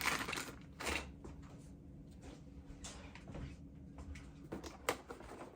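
Quiet handling of small plastic parts: faint rustling and a few light clicks, the sharpest one near the end.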